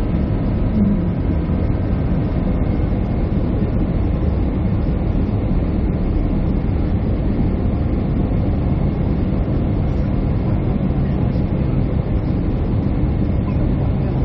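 Steady low rumble of an airliner's cabin noise, jet engines and airflow heard from a passenger seat, with a few faint steady tones running through it.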